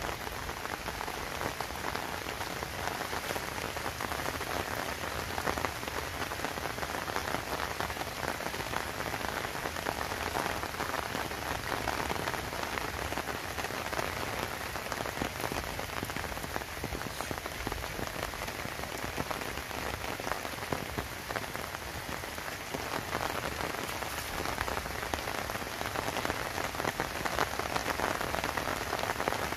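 Steady heavy rain falling: an even hiss, dense with the ticks of individual drops hitting surfaces.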